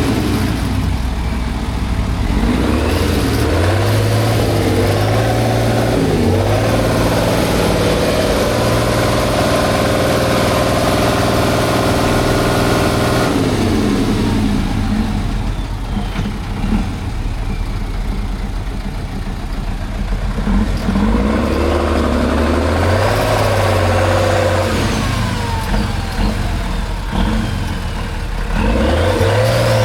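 Engine of a heavy off-road trial truck revving under load. It climbs and holds high for several seconds, drops back sharply about halfway through, then revs up again twice near the end.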